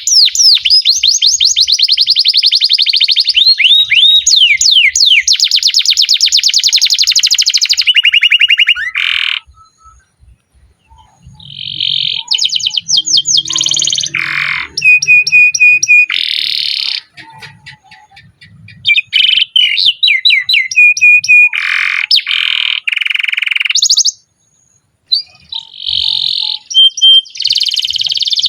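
Domestic canary singing: long rolling trills of fast repeated high notes, changing from one tour to the next and breaking off briefly twice.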